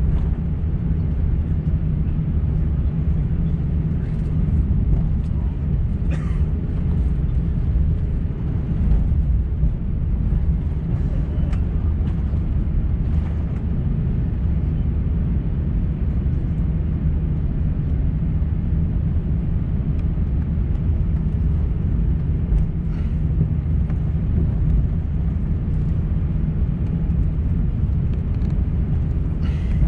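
Steady cabin noise inside an Airbus A350-900 in flight: a constant low rumble of the Rolls-Royce Trent XWB engines and airflow past the fuselage, with a few faint clicks.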